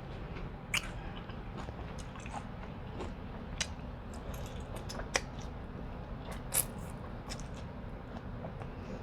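A person chewing and eating: scattered wet mouth clicks and smacks about a second apart, over a steady low hum.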